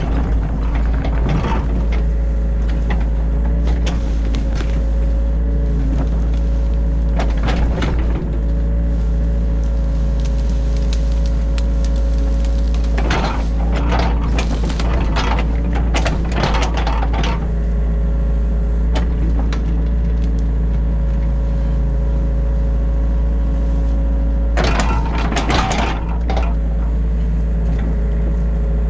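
Mini excavator's diesel engine running steadily with a strong low drone and a steady whine, heard from inside the cab. Bursts of clatter and scraping come four times, the longest about halfway through, as the machine digs out the ditch.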